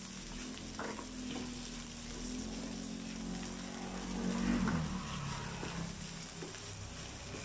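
Fish balls, squid balls and kikiam sizzling in hot oil in a non-stick frying pan as they are stirred with a silicone spoon. The hiss is steady, with a few brief scrapes of the spoon against the pan, the loudest about four and a half seconds in.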